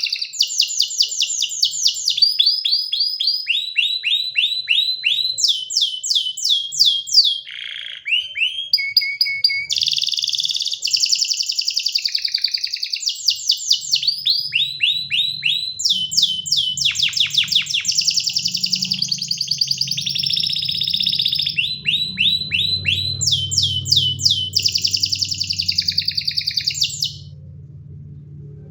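Domestic canary singing a long song of rapid trills, each phrase a fast run of identical notes at one pitch before switching to another, with a few lower swooping notes. The song breaks off near the end.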